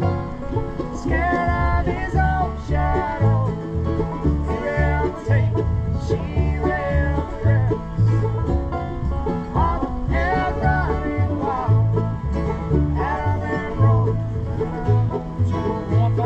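Acoustic bluegrass band playing, with banjo picking prominent over guitar and a low bass line that alternates between notes.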